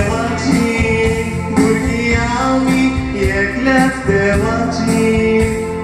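A Konkani song: a man singing over instrumental backing.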